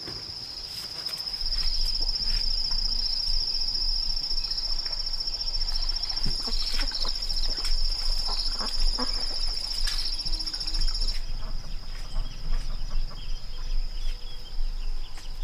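Insects chirring: a steady, high-pitched trill that weakens about eleven seconds in, with scattered light clicks and a low rumble underneath.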